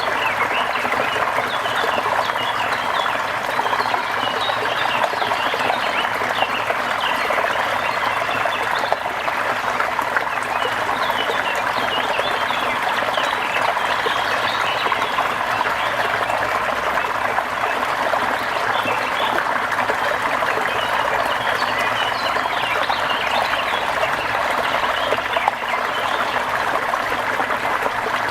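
Steady rush of falling or running water, with frequent short, high chirps scattered over it from small animals such as frogs or birds.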